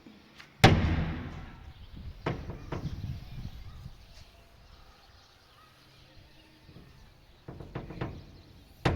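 A single loud thump about half a second in, followed by a few softer knocks, then more knocking and handling sounds near the end with a sharp click.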